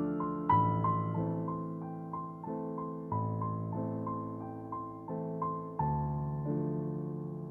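Background music: a slow, gentle piano piece, a melody of single notes over held bass chords.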